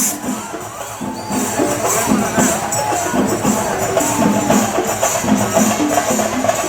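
Temple festival percussion music: rhythmic jingling metal strokes and drumming over a wavering melodic line.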